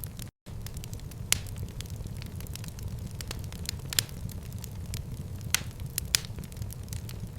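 Fire crackling in a fireplace: a steady low rumble of flames with scattered sharp pops, the loudest about a second in, at four seconds, and twice around six seconds. The sound cuts out for a split second near the start.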